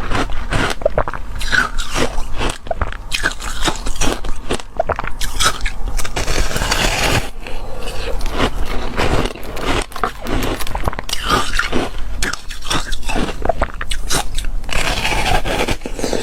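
Close-up crunching of foam ice being bitten and chewed, a dense run of sharp crackly crunches with brief pauses between bites.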